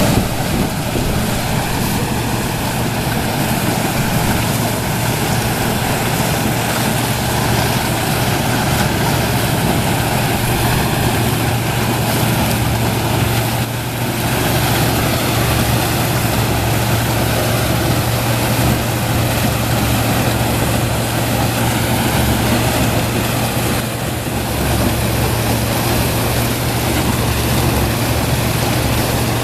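A 1977 Gleaner F2 combine running steadily while harvesting corn with its 430 corn head: a constant low engine hum under a dense mechanical din, dipping slightly twice.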